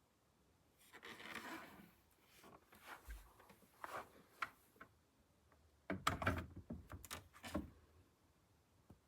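Handling noises: a brief rustle about a second in, then scattered clicks, and a burst of knocks and clicks around six seconds in.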